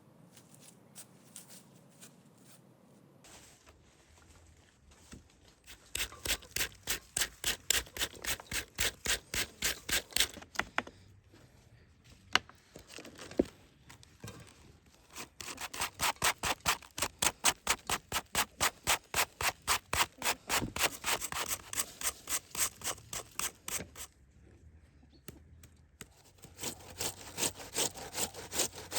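Rhythmic back-and-forth scraping strokes, about three a second, in several runs of a few seconds with short pauses between.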